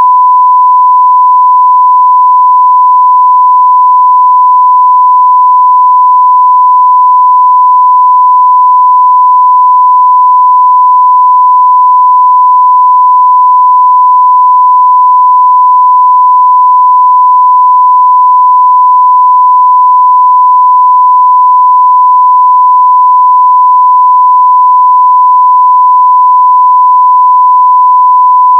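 A continuous 1 kHz sine-wave test tone at full scale (0 dB), a single steady pure pitch that never changes.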